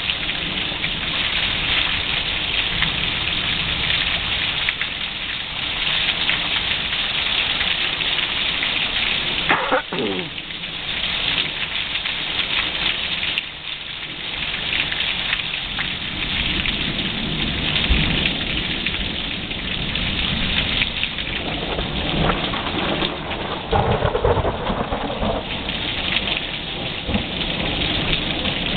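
Steady rain falling in a thunderstorm, with thunder rumbling at times, mostly in the second half. A brief falling tone sounds about ten seconds in.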